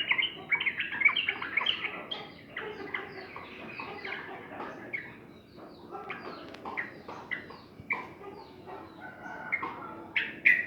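Yellow-vented bulbuls (trucukan) chattering and singing: a quick run of short, bubbly notes, with busier, louder bursts in the first couple of seconds and again near the end.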